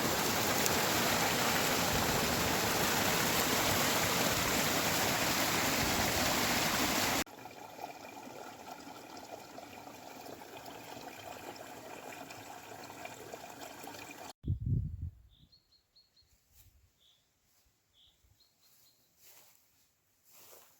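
Small waterfall on a stream, water rushing steadily and loudly. It stops abruptly about seven seconds in and gives way to a quieter rushing of water. About halfway through that sound cuts off too, leaving a brief low thump and then faint, short bird chirps.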